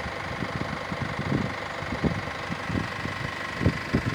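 An engine idling steadily with a faint constant whine, with irregular low thumps over it.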